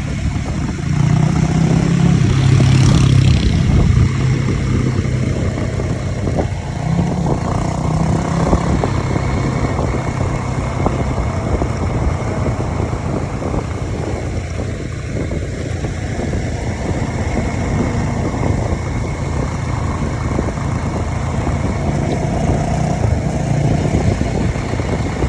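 Dirt-bike engines running and revving. The revs are loudest a second or two in and again around eight seconds in.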